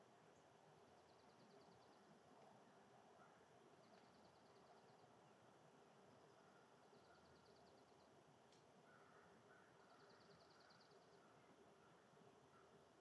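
Near silence: faint outdoor ambience, with a distant bird's short high trill repeating every few seconds.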